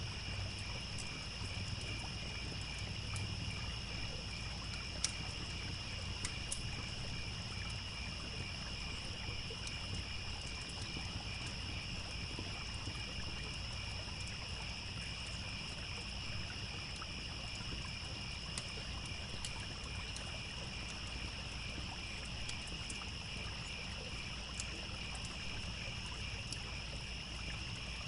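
Crickets chirping in a steady, continuous chorus, with sparse sharp pops and crackles from a campfire and the low, steady rush of a stream underneath.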